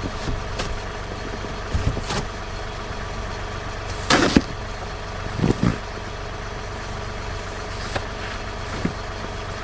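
Snow shovel scraping and heaving heavy snow in a few short strokes, the loudest about four seconds in, over a steady engine hum.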